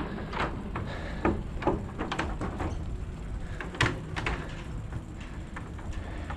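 A bicycle rolling along, with a low rumble and scattered sharp clicks and knocks at irregular intervals, the sharpest a little before four seconds in.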